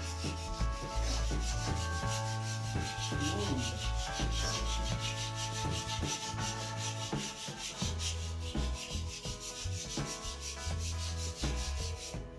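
Sandpaper rubbing back and forth along a new wooden snooker cue shaft in steady repeated strokes, with background music underneath.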